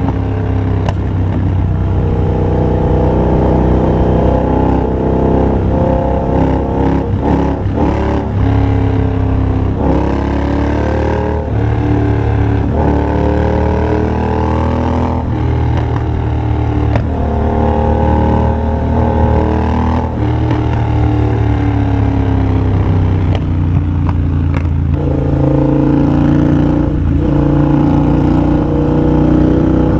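2023 Triumph Bobber's 1200 cc parallel-twin engine running through a de-catted TEC X-pipe and Motone Shorty exhaust while being ridden. The exhaust note rises in pitch under acceleration and drops back at each gear change, several times over.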